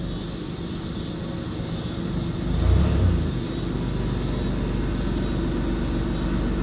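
Toyota 4Runner engine idling steadily, with a brief low swell in the rumble about two and a half seconds in.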